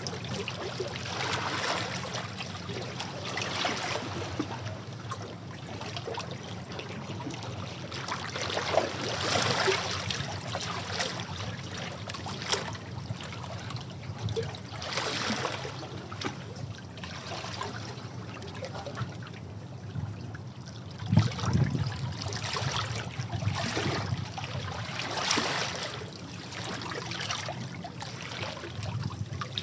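Sea waves washing against rocks: surges of surf swell and fall back every few seconds, with water trickling and draining off the rocks in between. The loudest surge comes a little past two-thirds of the way through.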